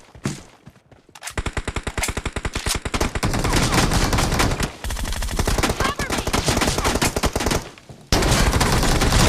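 Rapid automatic gunfire in a shooter video game, starting about a second in and running in long bursts, with a brief pause near the end before firing again.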